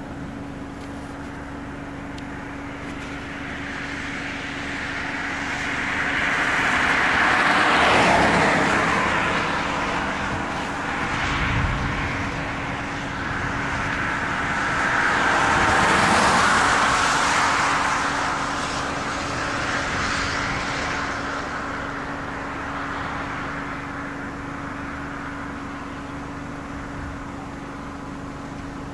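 Two vehicles pass by one after the other, tyre and road noise swelling and fading, the first peaking about a quarter of the way in and the second a little past halfway, over a steady low hum.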